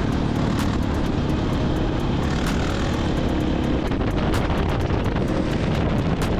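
Dirt bike engine running steadily under way, heard from the rider's camera, with wind rushing over the microphone and scattered sharp ticks.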